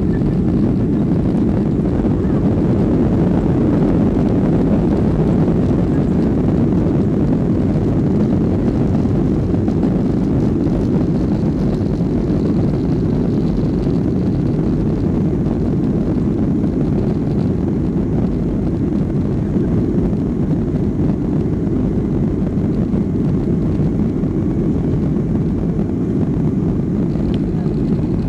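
Steady jet engine and airflow noise inside the passenger cabin of a Boeing 757-200 climbing out after takeoff, a deep, even rumble that holds unchanged throughout.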